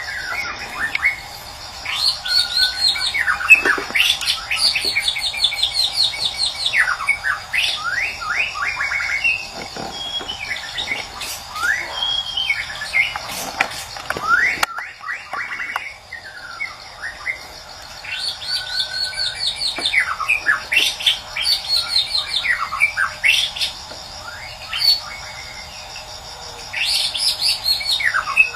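White-rumped shama (murai batu) singing: varied loud whistled phrases, fast trills and chattering runs in bouts, with short lulls between them.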